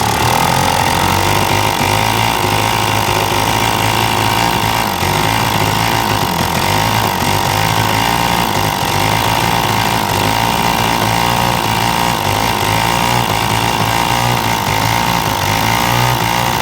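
Tecumseh small engine on a Sears machine revved up from idle, running at raised speed with an uneven, stumbling beat. This is the hiccup under throttle that remains after the carburetor has been cleaned and soaked repeatedly and regasketed.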